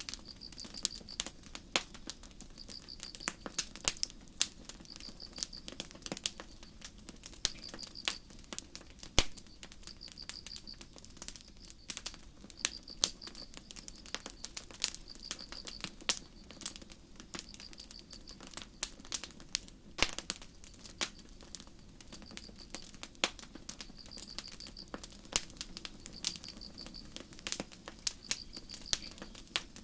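Campfire crackling with irregular sharp pops, a few louder snaps among them. Over a low steady hiss, crickets give short high-pitched chirps that repeat roughly every second or so.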